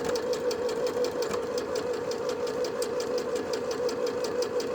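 Janome 5100 computerised sewing machine running steadily at middle speed, stitching in reverse: a steady motor whine with rapid, even needle ticks at about nine a second.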